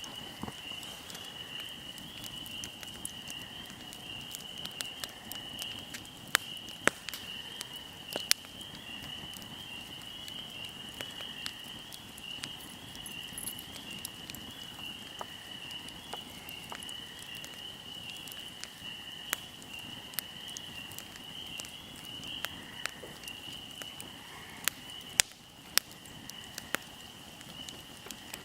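Wood fire crackling, with sharp pops scattered through and a few louder ones, over a steady high-pitched insect trill.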